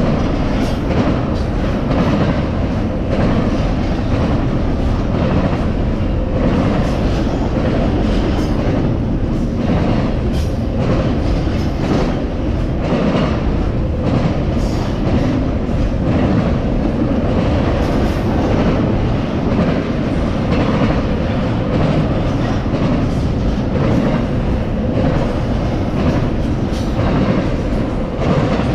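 A train rolling past close by: a steady loud rumble of steel wheels on rail, with a continual irregular clacking as the wheels cross rail joints.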